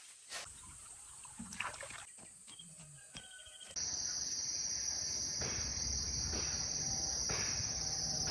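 High, steady insect drone that starts suddenly about four seconds in and holds, over low rustling; before it, only faint rustles and a few light knocks.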